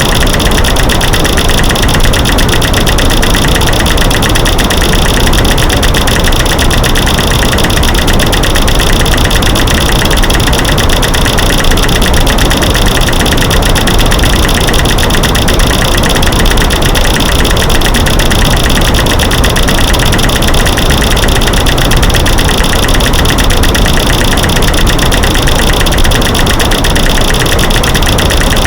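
Loud, unbroken mix of rapid clicks from light switches clicking, sticks snapping and rocks knocking, laid over a steady white-noise hiss. It is an edited masking noise with no pauses.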